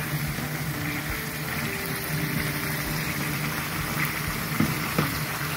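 Chicken pieces frying in hot oil, sizzling steadily over a steady low hum from the high-heat cooker, with a couple of faint clicks near the end.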